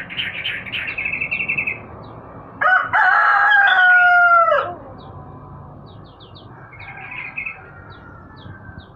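A rooster crows once, a loud held call of about two seconds that drops in pitch at the end, starting nearly three seconds in. Small birds chirp before it in a quick run of high notes, and again briefly near the end.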